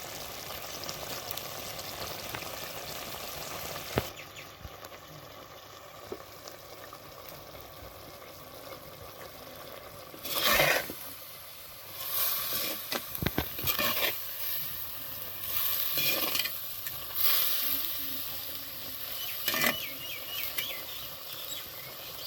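Chicken pieces frying in oil in a pan with a steady sizzle. From about halfway through, a spatula stirs and scrapes against the pan in a series of short, loud bursts.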